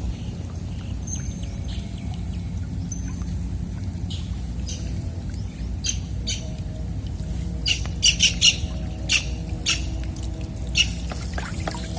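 Birds giving short chirps and squawks: a quick run of several about eight seconds in, then more near ten to eleven seconds, with a couple of faint whistles earlier. Under them runs a steady low rumble.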